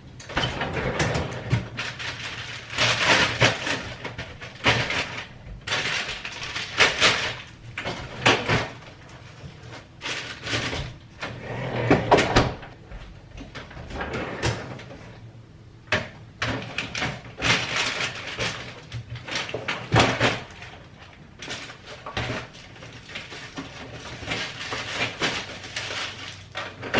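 Cold groceries being put away in the freezer and fridge: irregular handling noises of packages being moved and set down, with cupboard or freezer doors opening and closing.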